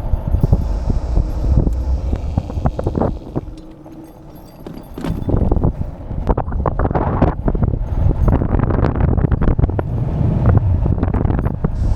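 Wind buffeting the microphone of a rider on a Rumble Henzo V5 electric motorbike, a ragged gusty rush. It dies down for a second or so about four seconds in, then builds up again.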